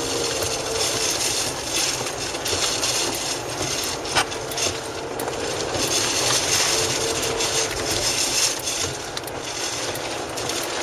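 Steady road and wind noise inside a moving car, with a faint engine hum and a few sharp knocks.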